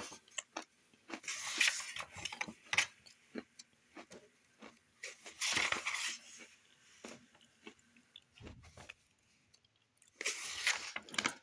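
Crackers being crunched and chewed close to the microphone, a run of short crackly bites. Three times there is a longer rustle of book pages being turned.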